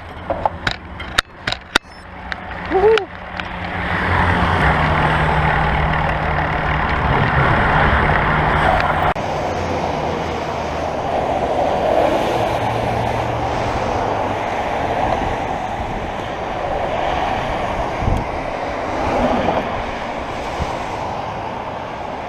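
A few sharp clicks, then steady road traffic noise: a continuous rush with the low hum of motor vehicle engines passing.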